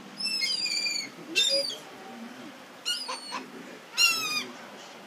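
Gulls calling: four short high calls, each falling slightly in pitch, the last about four seconds in.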